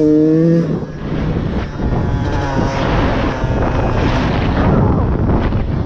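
Beta 125RR two-stroke dirt bike engine holding a high, wavering note for under a second at the start, then dropping away into a steady rumble of riding noise and wind buffeting the microphone.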